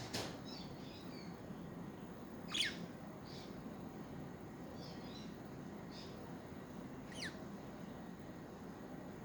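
Budgerigars calling: two quick, high, falling chirps, the louder about two and a half seconds in and another about seven seconds in, with soft short twitters between them. A sharp click opens the stretch.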